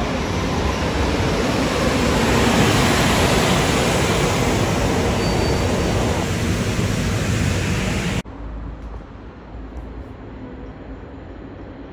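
EP07 electric locomotive and its passenger coaches rolling past close by, a steady rumble of wheels on rail that builds over the first few seconds. About eight seconds in it cuts off abruptly to a much quieter, distant rail-yard hum.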